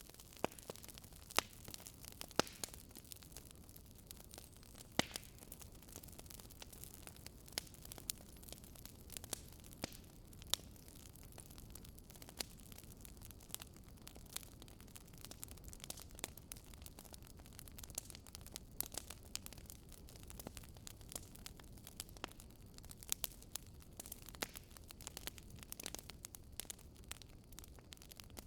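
Wood fire in a fireplace crackling: irregular sharp pops and snaps over a soft steady hiss, with a few louder pops.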